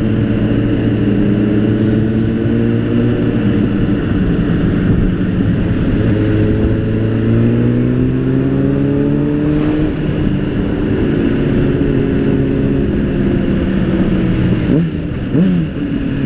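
Motorcycle engine running under way in traffic, its pitch rising and falling several times as it speeds up and eases off, over a steady rush of road noise.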